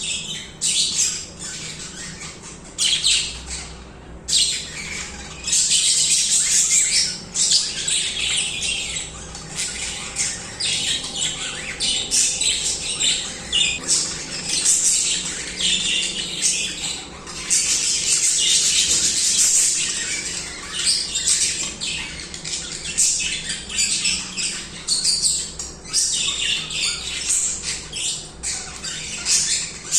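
A group of budgerigars chattering and warbling continuously, a busy mix of quick high chirps, squawks and warbled song with a brief lull about four seconds in.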